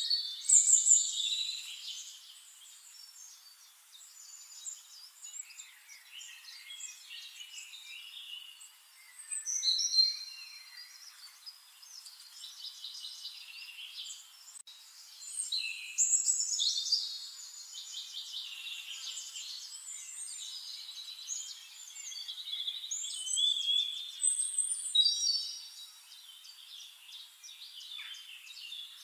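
Wild birds chirping and trilling in high, overlapping calls, with louder bursts of song about a second in, around ten seconds, and again around sixteen and twenty-four seconds.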